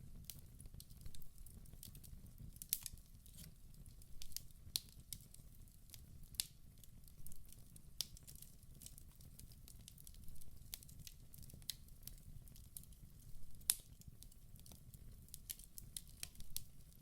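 Wood fire crackling in a fireplace: irregular sharp pops and snaps, several a second at times, over a steady low rumble of the burning.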